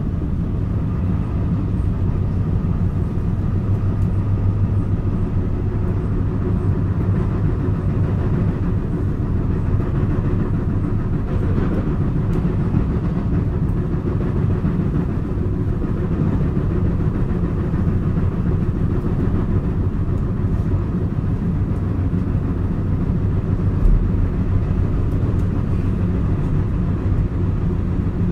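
JR West 223 series electric train running, heard from inside its motor car: steady running noise of wheels on rail and running gear, carrying the knock of a flatted wheel. One heavier low thump comes late on.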